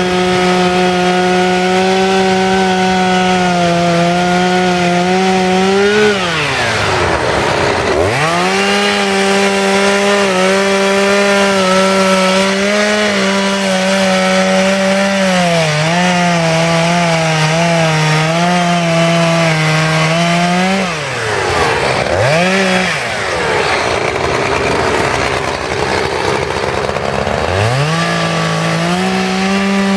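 Two-stroke chainsaw running at high revs while carving wood. Its pitch drops sharply and climbs back as the throttle is let off and opened again: once about a fifth of the way in, twice around two-thirds of the way, and once near the end.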